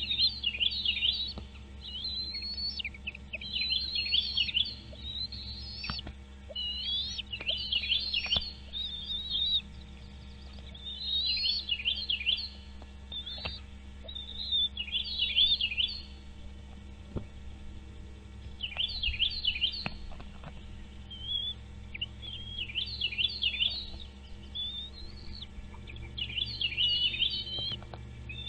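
Bird calling in repeated short series of quick, high chirping notes, many sweeping downward, a new series every two to three seconds.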